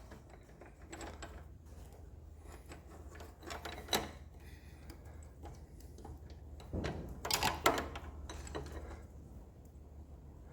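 Scattered light metallic clicks and clinks of a motorcycle drive chain and tools being handled, with a sharper click about four seconds in and a short flurry near the three-quarter mark, over a low steady hum.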